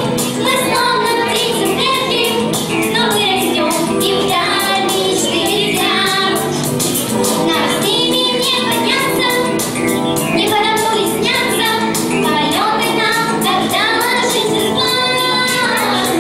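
Two girls singing a song together over a backing track with a steady beat.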